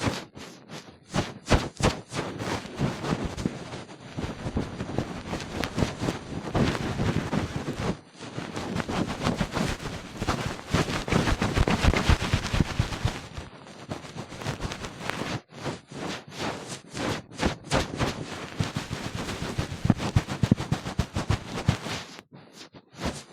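Ear-cleaning tool scraping and digging hard inside a silicone ear model right at the microphone: a dense, rapid, scratchy crackling with two brief breaks.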